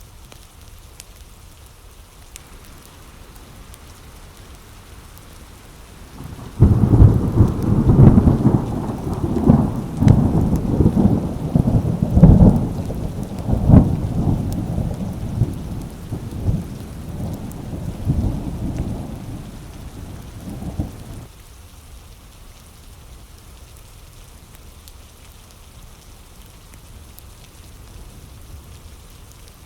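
Steady rain with a roll of thunder: a sudden loud crack about seven seconds in, then rumbling and crackling peals for about fifteen seconds that die away, leaving the rain alone.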